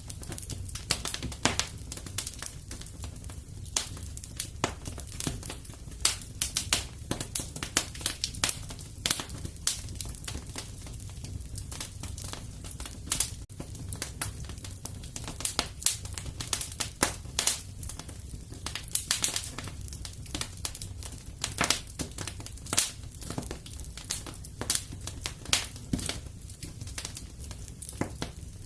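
Fireplace fire burning with a steady low rumble and constant irregular crackles and sharp pops of burning wood.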